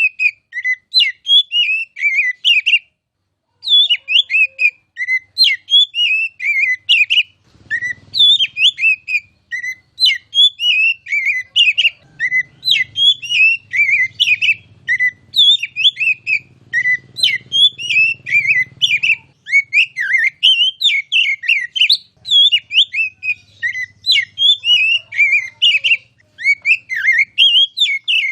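Oriental magpie-robin (kacer) singing a fast, near-continuous run of varied whistles and chirps, with a short pause about three seconds in.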